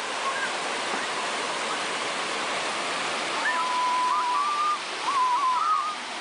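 Waterfall: water falling and rushing steadily. From about halfway, a thin wavering high tone sits over it.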